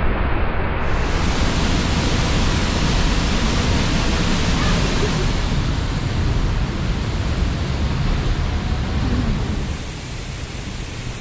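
La Paz Waterfall pouring, a steady loud rush of falling water that drops in level about ten seconds in.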